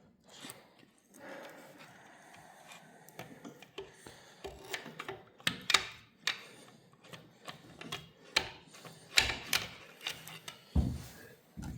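Irregular metallic clicks, clinks and knocks of hand tools working on the crankshaft and connecting-rod bearing caps of a Chevy 350 V8. A few duller thumps come near the end.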